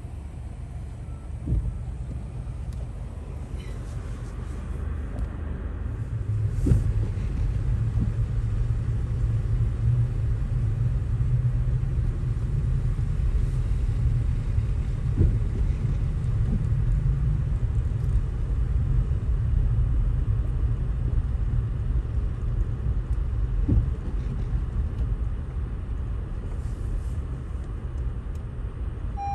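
A car's engine and road rumble, heard from inside the cabin: a steady low rumble that grows louder about six seconds in as the car gets under way. A few light knocks come through it.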